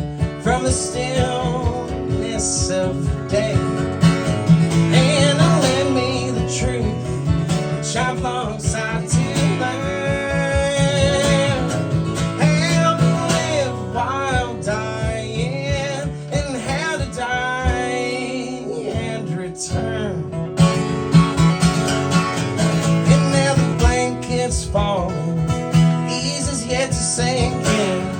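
Live acoustic country music in waltz time: acoustic guitar strumming under a gliding melody line, an instrumental stretch of the song with no sung words.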